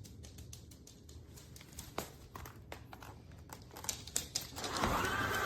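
Faint scattered clicks and rustles, then about four and a half seconds in the Dreame H12S wet-dry vacuum's motor starts up, rising quickly to a steady whine.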